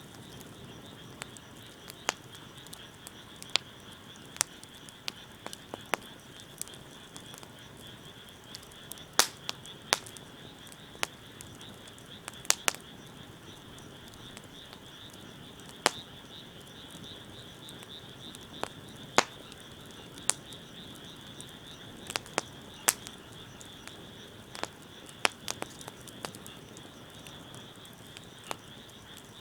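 Wood fire crackling: sharp, irregular pops, some loud and several a few seconds apart. Under them runs a steady high-pitched background chorus, likely frogs or insects.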